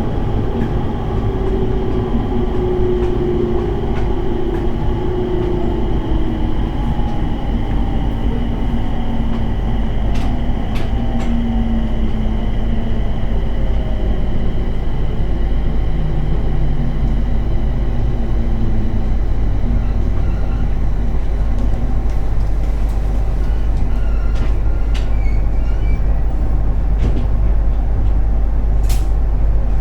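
JR East 701 series electric train heard from inside the car, slowing down: the traction motor whine falls steadily in pitch over the first half under a constant running rumble, with a few sharp clicks later on.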